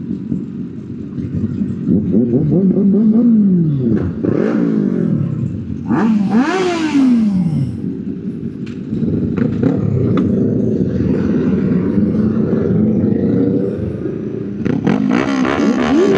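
Motorcycle engine running, revving up and falling back twice, then holding a steadier, higher pitch near the end.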